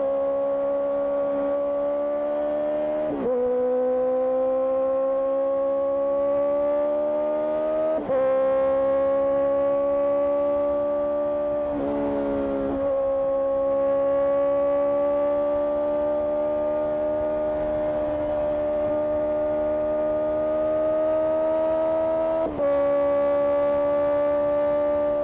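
Honda CBR650R inline-four with an IXIL IXRACE exhaust, riding under light throttle. The engine note climbs slowly and drops sharply four times, at about 3, 8, 12 and 22 seconds, as gears are changed.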